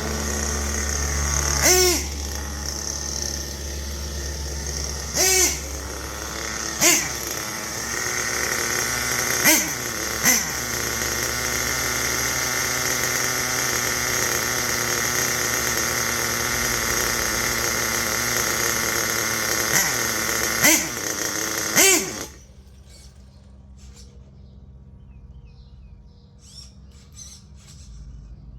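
HPI Savage nitro RC truck's small glow engine running at high revs, surging briefly several times, then cutting out suddenly about 22 seconds in. The owner suspects a loose throttle return spring behind its misbehaviour.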